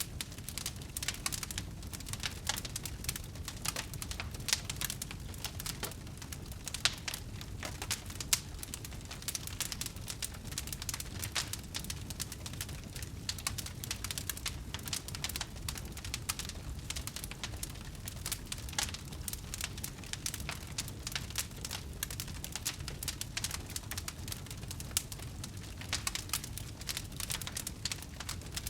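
Wood fire crackling: dense, irregular pops and snaps over a low steady rumble, with a few louder snaps in the first third.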